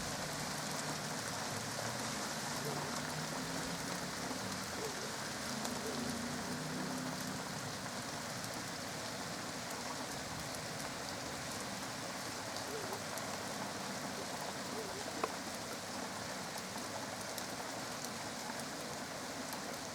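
Steady rain falling and pattering on surfaces, with a single sharp tick about fifteen seconds in.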